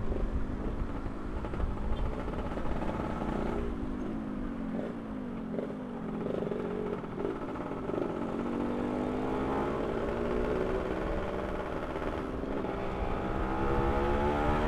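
Two-stroke motorcycle engine underway: its revs waver and drop in the first half, then climb steadily through the last several seconds as the bike accelerates.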